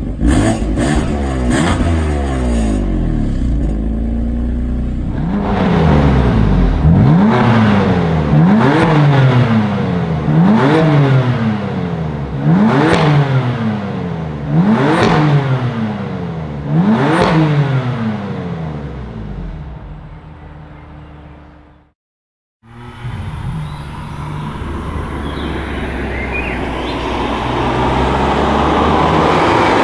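BMW M3 engine and exhaust being revved hard while standing, in six quick blips about two seconds apart, each rising sharply and dropping back to idle. The sound then fades out, and after a brief silence a BMW M3 engine runs on, growing louder toward the end.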